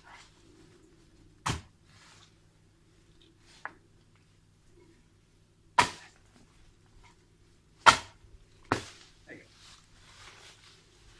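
A few sharp knocks at irregular intervals, about four loud ones, the loudest about eight seconds in, with fainter taps between.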